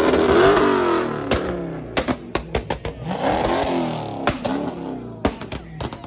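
A car engine revving hard twice, its pitch climbing and falling each time, with a run of sharp cracks between the revs and a few more later, fading toward the end.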